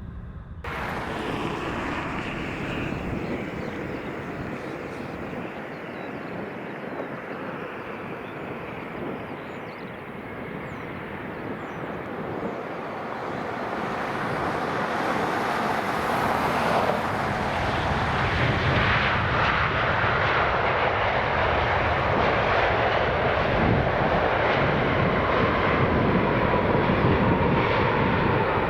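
Jet engines of a heavy airliner coming in to land, the noise building steadily and growing louder through the second half, with a thin steady whine near the end.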